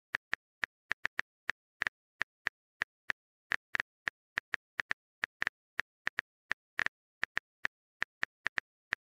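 Phone keyboard typing sound effect: short, sharp taps coming irregularly, about three to four a second.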